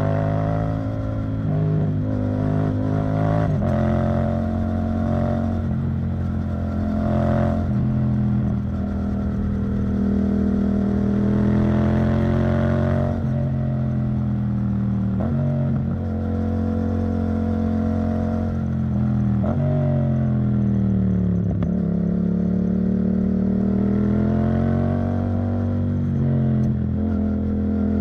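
Yamaha MT-07's 689 cc parallel-twin engine running through an Arrow Thunder titanium exhaust. Its pitch climbs and drops repeatedly, with several sudden steps in pitch along the way.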